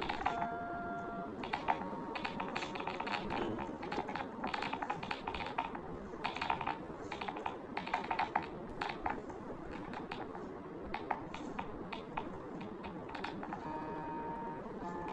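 Typing on a keyboard: uneven bursts of rapid key clicks with short pauses between them, with brief steady tones near the start and near the end.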